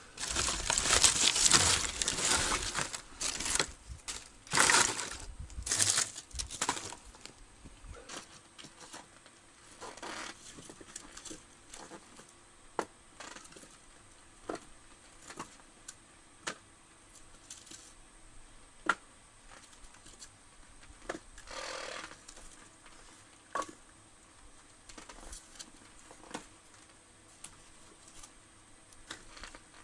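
Rustling and crinkling handling noise for the first several seconds, then quieter with scattered sharp clicks and light knocks.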